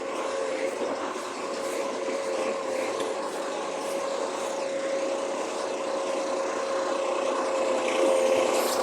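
Recycling garbage truck running with a steady whine over a haze of mechanical noise, growing slightly louder near the end.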